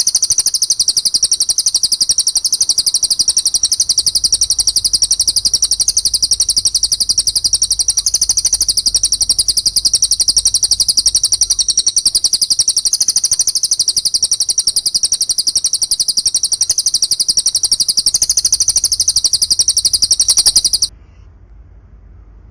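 Recorded small songbird calls: a fast, unbroken high chattering trill, the kind of sparrow fight chatter and cililin song used as masteran training audio for caged birds. It cuts off suddenly near the end.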